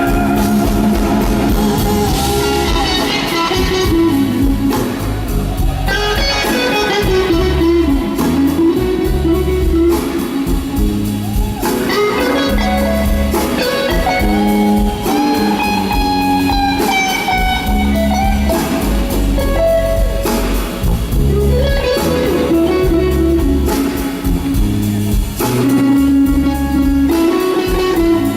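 Live blues band playing a slow blues instrumental break, an electric guitar carrying the lead with bending, gliding notes over bass, drums and keys.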